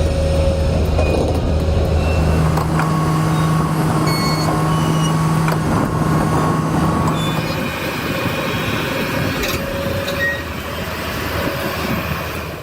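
Heavy vehicle engine running with a steady low drone. The drone steps up in pitch about three seconds in and fades after about seven seconds, leaving a rumbling mechanical noise.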